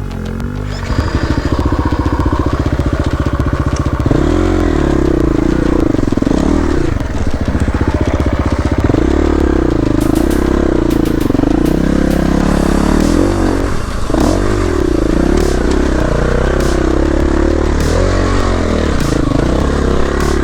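Enduro dirt bike engine being ridden on a rough trail, the revs rising and falling in repeated surges as the throttle is worked on and off. Short sharp clicks come through in the middle.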